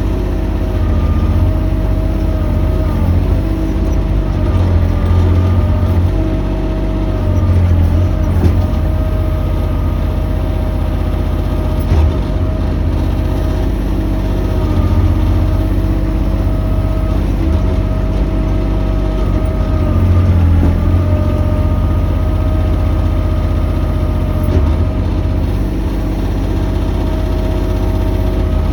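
Mini excavator's diesel engine running steadily under work, with a steady whine over it that dips and rises slightly at times. A couple of sharp knocks about eight and twelve seconds in.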